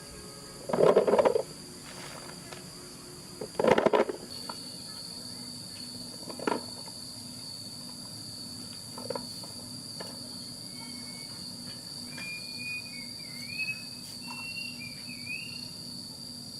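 Steady high-pitched insect drone of crickets or cicadas. Two loud, short noisy bursts cut in about a second and about three and a half seconds in, and a few short chirping calls come in the second half.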